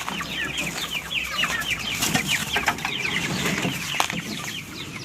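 A flock of chickens calling together: a dense, continuous chatter of short, high, falling peeps and clucks.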